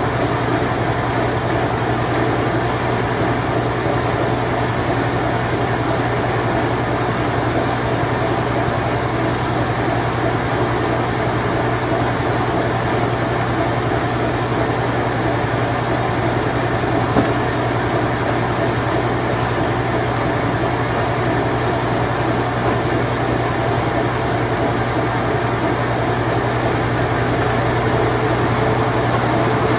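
Vintage Whirlpool Imperial Clean Touch washing machine, c. 1988–1991, running its spin cycle: a steady low motor hum over an even whirring noise, with one faint click about halfway through.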